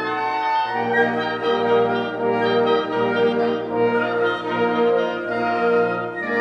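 Chamber orchestra playing classical music live, with winds and horns holding sustained chords that shift about once a second.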